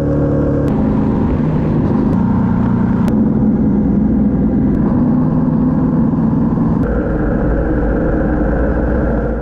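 Yamaha MT-07 motorcycle's parallel-twin engine running steadily while riding, with wind noise, heard on the bike; the engine note jumps to a different pitch abruptly about 1, 3 and 7 seconds in.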